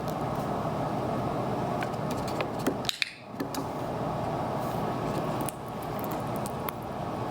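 Steady fan-like room noise with scattered light clicks and taps. The noise drops out briefly about three seconds in.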